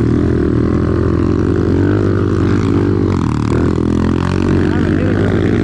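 Off-road vehicle engine running steadily, with a brief change in its note about three seconds in.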